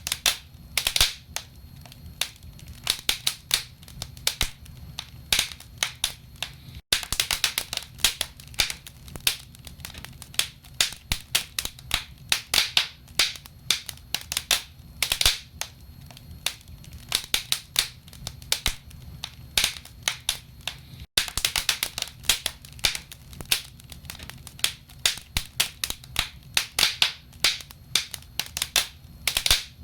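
Wood fire in a fireplace crackling, with frequent irregular sharp pops over a low steady rumble of the flames. The sound cuts out for an instant twice.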